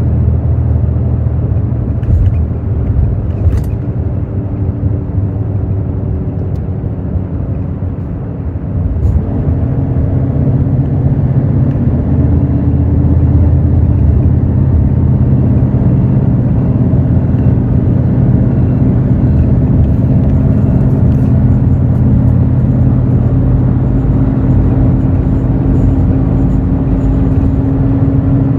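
Hino J08E-VD inline-six diesel of a Hino city-type bus heard from inside the cabin, running under way. It eases off and goes quieter for a few seconds, then pulls again about nine seconds in, its note slowly rising.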